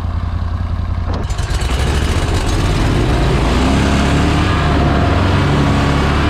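Pro-Drive mud motor running hard under heavy load, revving up about a second in and staying at high power as it tries to drive the boat out of thick marsh grass.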